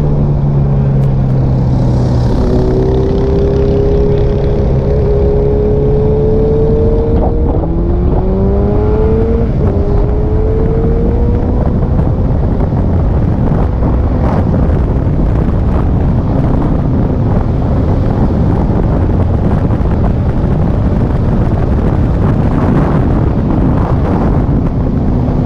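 Kawasaki KLR650's single-cylinder engine accelerating, its pitch climbing and dropping back twice as it shifts up through the gears. Wind noise on the microphone then swamps it for the rest.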